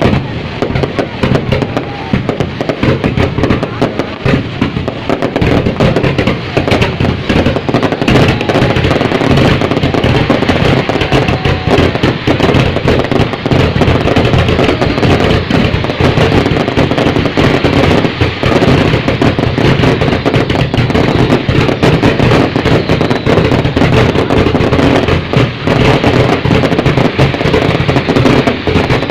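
Fireworks going off in a dense, continuous barrage: rapid overlapping bangs and crackling with no gaps.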